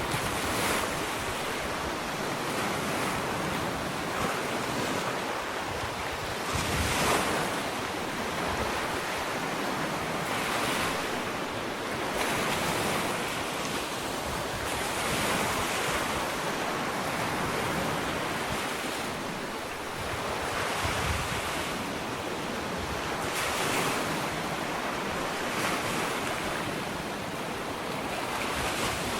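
Ocean waves breaking and washing onto a sandy beach, a continuous surf that swells every few seconds, with some wind.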